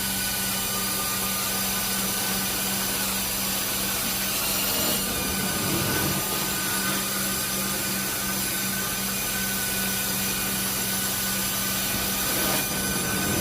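Vacuum cleaner running steadily over heavily soiled carpet, its motor hum joined by the crunchy, gritty rattle of dirt and debris being sucked up.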